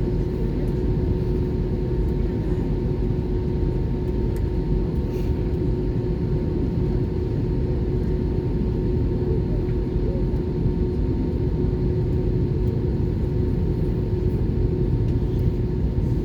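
Steady cabin rumble inside an Airbus A320-232 sitting on the ground between pushback and taxi, with a constant hum running through it.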